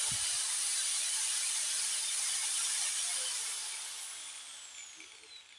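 Angle grinder running free at full speed on a newly replaced armature, a steady high whine, then switched off about three and a half seconds in and winding down with a falling whine. It runs smoothly, which the owner calls working perfectly.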